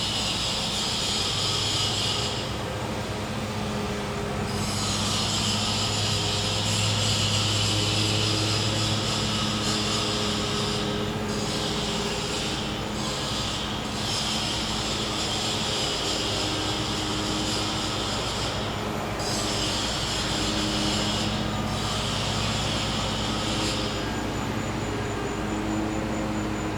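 Gas-powered generator humming steadily, with high-pitched insect buzzing over it that comes in bouts of a few seconds, stopping and starting again.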